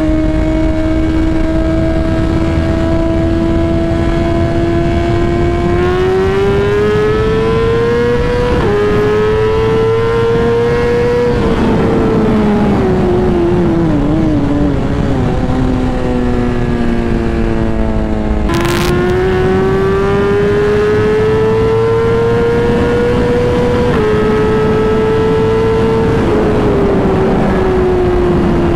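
BMW S1000RR inline-four engine under way. The revs climb and drop suddenly at a few upshifts, ease off and fall for several seconds in the middle, then climb through the gears again and fall away near the end.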